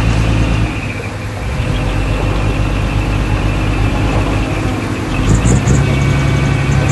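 Heavy diesel engine of earthmoving machinery running steadily, its low note growing stronger after about four and a half seconds, with a few short high squeaks about five seconds in.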